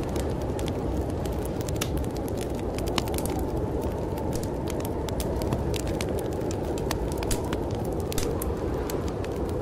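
Wood fire crackling in a fireplace, with frequent sharp pops and snaps, over a steady low rush of storm wind.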